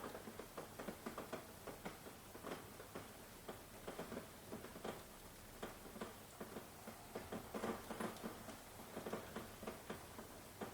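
Rain falling, with drops pattering and dripping in an irregular scatter of taps.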